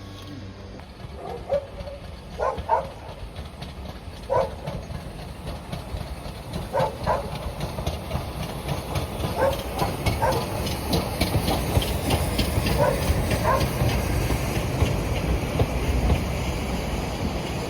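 Train rolling past, its wheels knocking and ringing over rail joints in pairs, with a running rumble that grows steadily louder.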